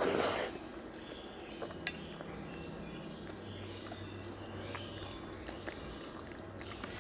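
Close-up mouth sounds of a person eating curry and rice by hand: a short, loud, wet sound as a handful goes into the mouth at the start, then quiet chewing with small clicks and squelches.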